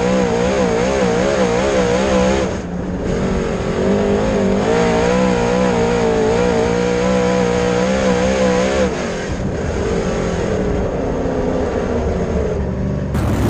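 Dirt late model race car's V8 engine running hard at high revs, its pitch wavering rapidly as the car works over the dirt. It backs off briefly about two and a half seconds in, comes back on, and drops lower again around nine seconds. The sound cuts off abruptly just before the end.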